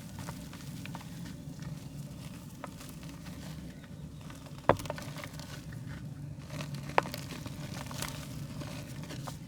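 Soft mud being crumbled by hand: scattered small crackles and ticks, with two sharp snaps, one about halfway through and another a couple of seconds later, over a steady low hum.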